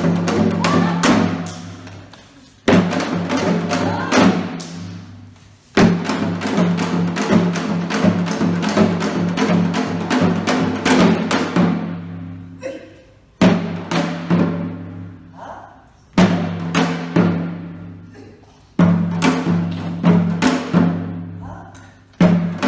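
Music driven by drums: phrases of rapid drum strokes that start abruptly and ring away over a couple of seconds, repeating every few seconds, over a steady low hum.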